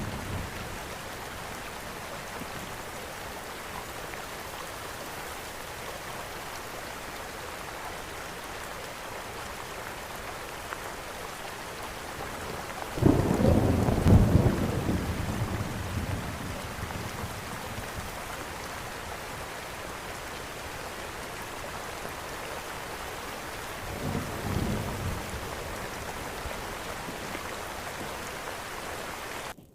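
Steady rain falling, with a loud rumble of thunder near the middle that fades over a few seconds and a fainter rumble later. The sound cuts out for an instant near the end.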